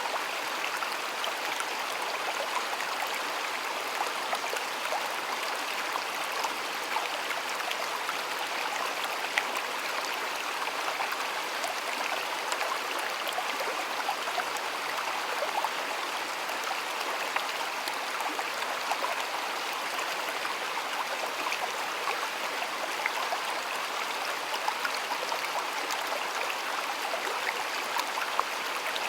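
A shallow stream flowing and splashing steadily, a continuous babble of water with many small splashes.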